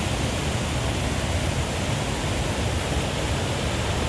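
Steady rush of a large waterfall, a continuous, even roar of falling water.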